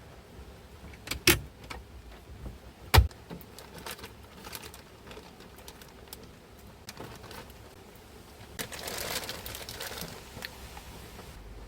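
Two sharp knocks about two seconds apart, then scattered light clicks and a stretch of rustling handling noise near the end.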